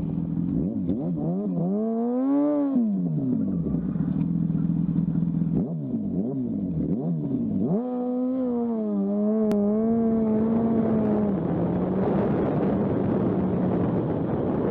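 Motorcycle engine revving, its pitch climbing and falling several times over a steady low engine drone, then running on with wind rush near the end.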